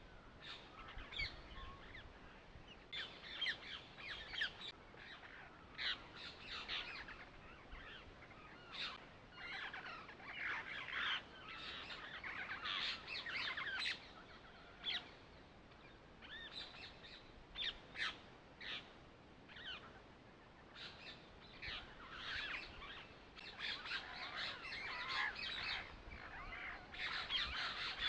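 Birds chirping: many short calls that glide in pitch, coming in clusters, with a quieter stretch about two thirds of the way through.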